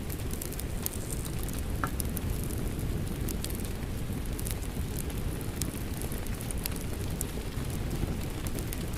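Steady rain blended with a crackling wood fire: a constant low rushing noise with scattered sharp pops and crackles throughout.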